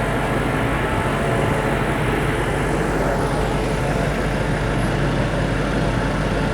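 BMW X5 M Competition's 4.4-litre twin-turbo V8 idling steadily, with a constant low hum and even background noise.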